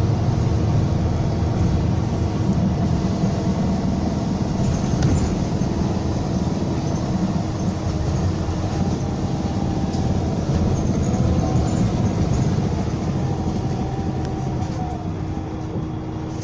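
Scania K320 coach's 9.3-litre DC9 diesel engine running steadily under way, mixed with road rumble. A faint steady whine runs through it, and the level eases off a little near the end.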